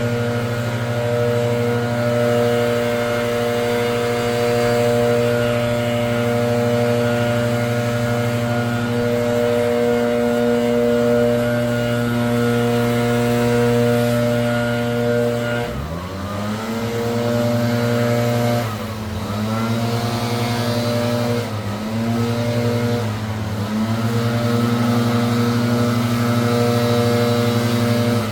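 Gas leaf blower engine running steadily at high throttle. About halfway through the throttle drops sharply and comes back up, followed by three short dips in engine speed.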